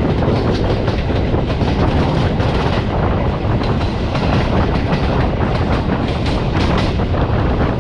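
Passenger train coach running along the track: a steady rumble of wheels on rail with a quick, continuous run of clicks and knocks from the rails.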